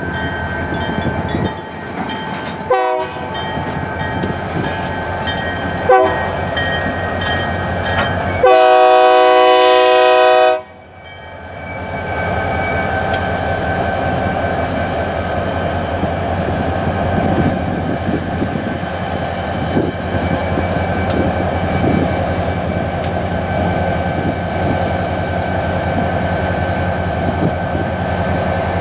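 Diesel locomotives, an SD40-2 and a GP50, sounding their horn for a grade crossing: a few short blasts, then a long, very loud blast that stops about ten and a half seconds in. After it the locomotives' diesel engines run with a steady low rumble and wheels clicking over the rails as the train moves through the crossing, while the crossing's bell keeps ringing.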